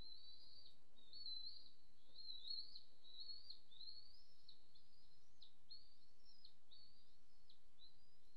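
A bird calling a long, even series of high notes, a little more than one a second, each rising then breaking off sharply, over a faint steady low hum.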